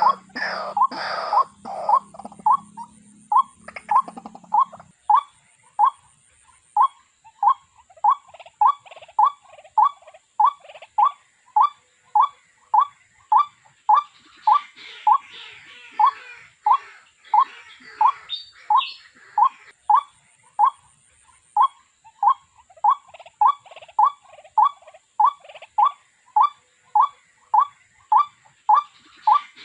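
A bird calls one short note over and over, evenly, about one and a half calls a second. Louder, higher chirping sits over it in the first few seconds and again around the middle.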